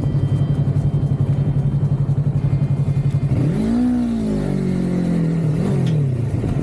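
Vehicle engine running with an even, rapid pulse, revving up and settling back down about halfway through, with a smaller rev near the end.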